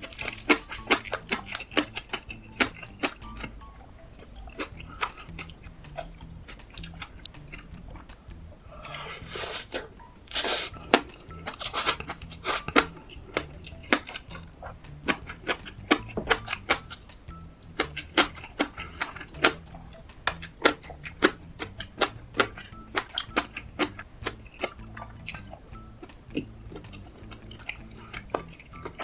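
Close-miked eating: chewing of kimchi fried rice with melted cheese and sausage, full of quick wet mouth clicks and crunches. A denser scraping or slurping stretch comes about ten seconds in.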